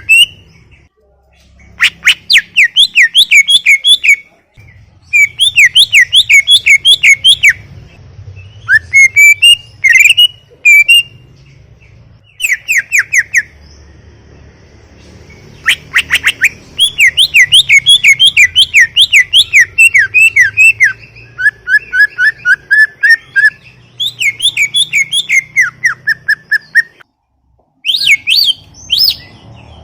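A cucak ijo (green leafbird) singing loudly in rapid phrases of repeated chirping notes, several notes a second, each phrase two to three seconds long with short pauses between.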